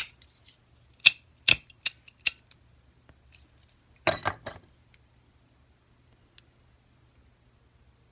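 Small tools clinking and tapping on the jeweller's bench: several sharp separate clicks, then a short quick clatter about four seconds in and one faint tick later.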